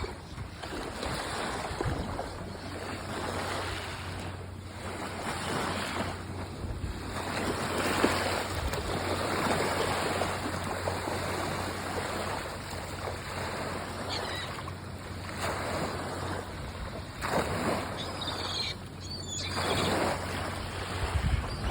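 Surf washing up on a beach, swelling and falling back every few seconds, with wind buffeting the microphone.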